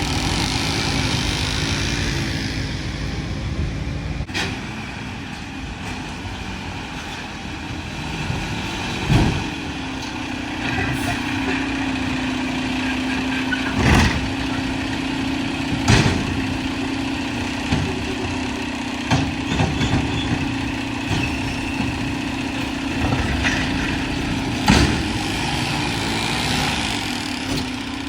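Mack LR garbage truck with a McNeilus body running, its engine and hydraulics humming steadily, with a steady whine that grows stronger for a stretch in the middle. Several sharp metallic knocks stand out over it, spaced a few seconds apart.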